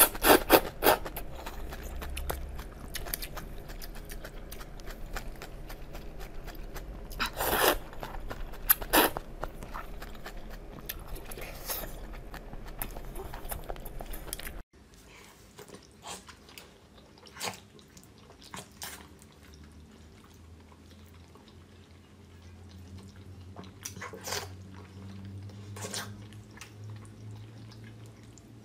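Close-miked eating: chewing with sharp, crunchy bites. About halfway through it cuts abruptly to a quieter stretch with fewer, softer bites.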